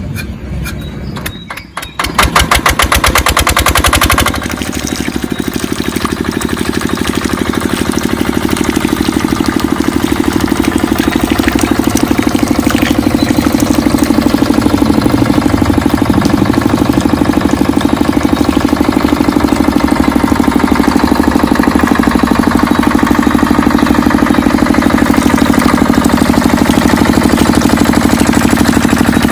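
Mini diesel water-pump engine starting about two seconds in. It fires in fast, loud, even knocks for a couple of seconds, then settles into a steady run.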